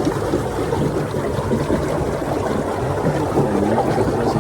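Water pouring and gurgling into a water storage tank: a steady flow full of wavering, bubbling tones that sound almost like music.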